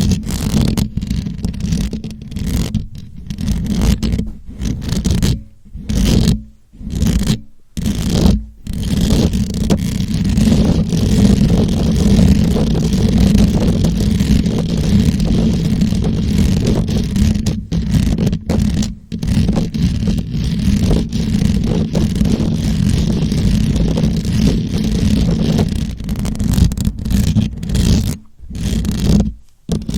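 Scratching directly on a microphone: a dense, loud, low scratchy rumble, broken by several short pauses in the first nine seconds and once near the end, otherwise continuous.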